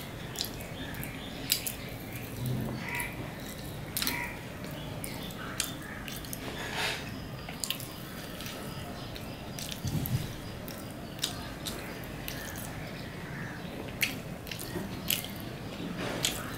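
Close-up chewing and lip-smacking of a man eating by hand. Irregular short wet clicks and smacks come every second or so.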